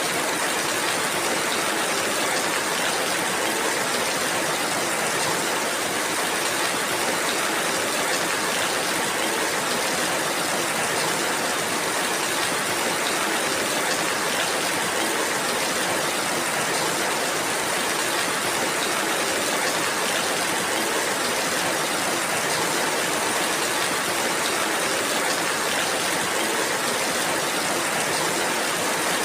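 Steady, even rainfall, a continuous hiss of rain with no breaks or changes.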